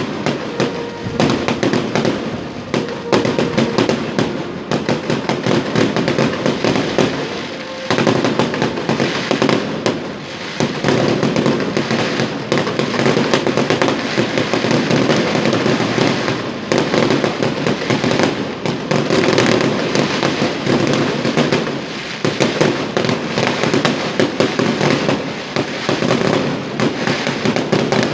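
Fireworks display: a dense, continuous barrage of bangs and crackling, with short lulls about eight and ten seconds in.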